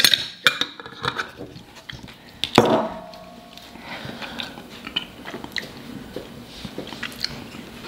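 A person biting into a crunchy round cracker topped with pumpkin spread and chewing it, with scattered small crunches and a louder crunch about two and a half seconds in.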